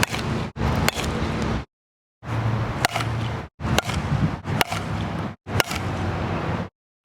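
Fastpitch softball bat hitting a ball about five times in short, separate cuts, each hit a sharp crack over steady outdoor background noise.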